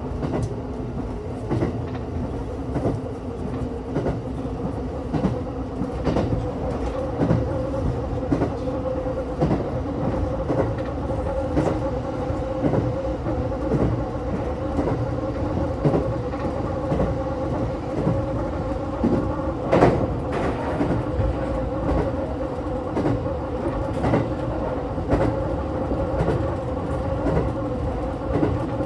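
JR West 227 series 1000 subseries electric train running at speed, heard from inside the front of the car: the wheels clack over the rail joints again and again over a steady hum. The sharpest clack comes about twenty seconds in.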